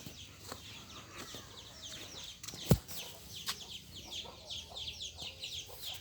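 Birds, likely poultry, chirping busily in many short, high, falling calls, with one sharp knock a little before halfway.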